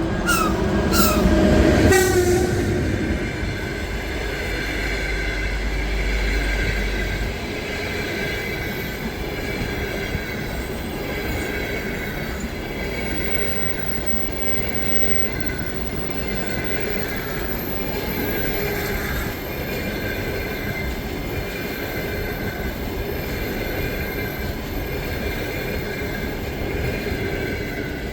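An EP1M electric locomotive passes with a brief falling horn note at the start and a deep rumble, then its passenger coaches roll by with steady high wheel squeal over the rolling noise.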